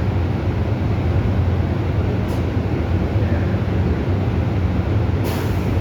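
Steady low rumble of a PATH subway train, with a short hiss a little over two seconds in and another near the end.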